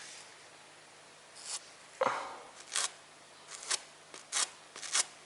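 Grout being pressed into fireplace joints with a small spatula: about six short, separate scrapes of the tool against the grout-filled joints.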